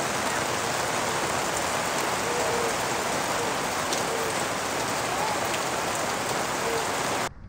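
Rain falling steadily, an even hiss that cuts off abruptly near the end.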